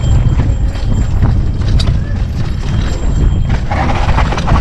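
Mountain bike rattling and bumping down a rough dirt trail, with heavy wind rumble on the action camera's microphone. About three and a half seconds in, a hissing scrape joins.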